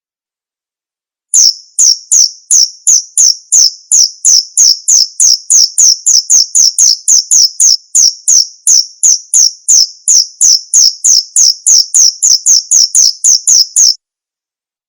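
Male cricket calling: a steady run of short, high chirps, about three a second, that starts just over a second in and stops abruptly about a second before the end.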